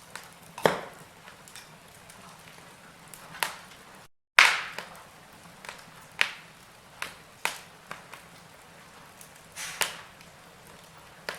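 Wood fire burning in a fireplace, crackling with irregular sharp pops over a soft hiss. The sound cuts out for a fraction of a second about four seconds in, and the loudest pop comes right after.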